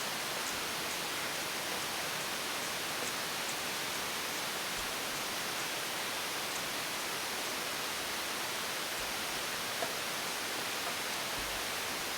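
A steady, even hiss with no distinct mechanical sound, and one faint light click about ten seconds in.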